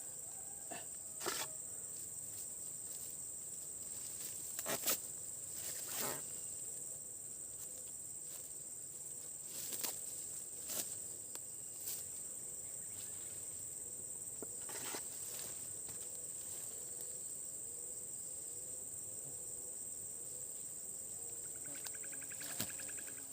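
Steady high-pitched chorus of insects, with a handful of sharp knocks and taps scattered through it; the loudest comes about five seconds in.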